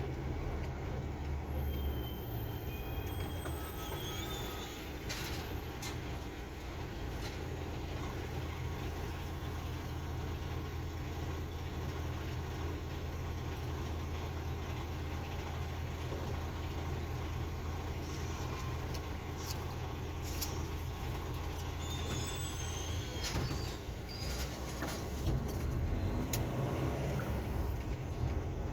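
Truck engine running steadily with road and cab noise, and a few sharp clicks and brief high squeaks. The low engine note drops away about 23 seconds in, then the noise grows louder near the end.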